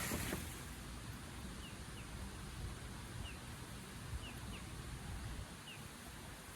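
A bird repeating short, falling chirps every second or so over a steady low rumble, with a brief rush of noise right at the start.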